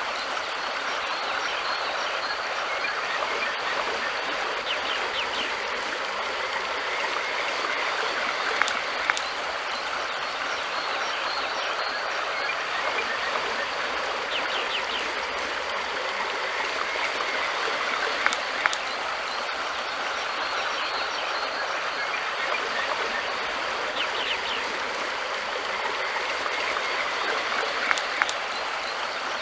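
River water flowing with a steady rush, with a few sharp clicks now and then.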